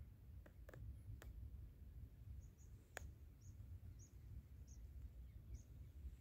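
Near silence outdoors: a faint low rumble with a few soft clicks, and a small bird's short, high chirps repeating about once a second from a couple of seconds in.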